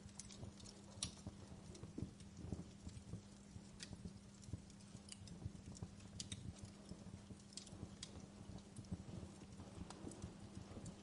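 Fireplace crackling: irregular sharp pops and snaps, a few a second, with soft low knocks and a faint steady hum underneath.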